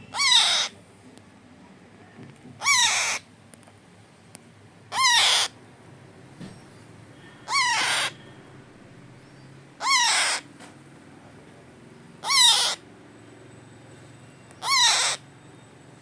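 A 25-day-old parrot chick squawking, seven calls about two and a half seconds apart, each about half a second long and falling in pitch. These are the repeated begging calls of a hand-fed chick.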